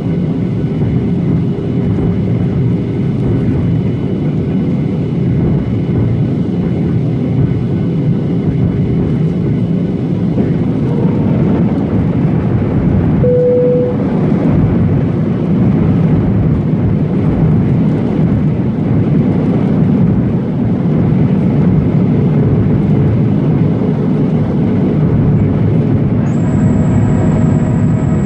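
Steady engine and airflow noise inside a Boeing 737-800 cabin on approach, with a low rumble. A short single tone sounds about halfway through, and a higher whine made of several tones comes in near the end.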